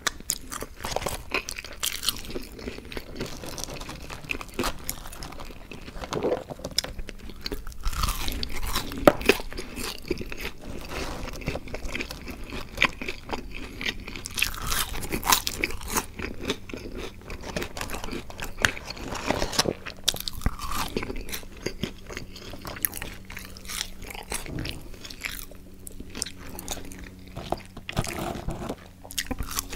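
Close-miked eating sounds: chewing and crunching French fries and burger, with many sharp crunches, smacks and wet mouth sounds.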